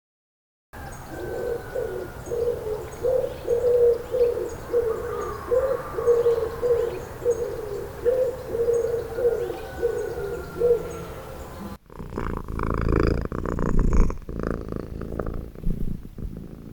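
A bird's repeated low calls, about two a second, with faint high chirps from other birds. About twelve seconds in it cuts abruptly to a different low, noisy animal sound.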